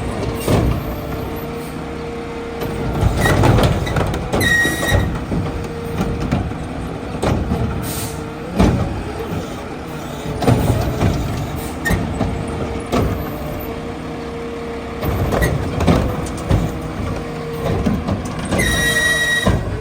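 Mack LR garbage truck with a McNeilus Meridian body at work: diesel engine running under a steady whine, with repeated loud bangs and clanks. Two short high tones sound, about four and a half seconds in and again near the end.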